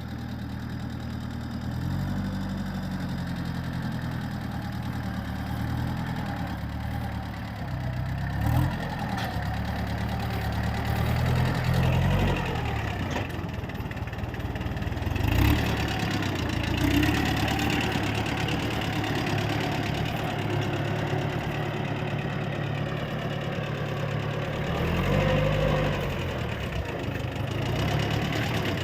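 Mini tractor engine running, its speed rising and falling several times.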